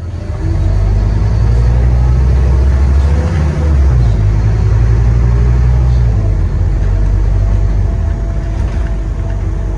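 Scania N230UD Omnicity double-deck bus engine running under load, heard on board; its low hum steps up in pitch about four seconds in and eases off about two seconds later.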